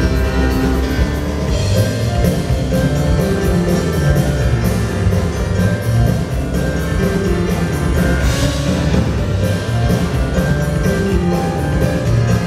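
Live instrumental music: piano-led melody over a steady, fast percussion beat.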